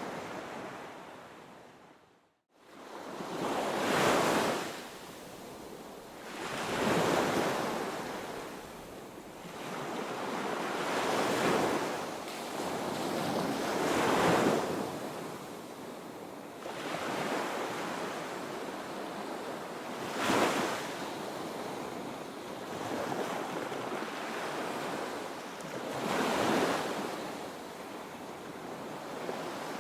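Ocean waves breaking on a beach, the surf rising and falling in surges every few seconds. The sound fades out to silence for a moment about two seconds in, then comes back.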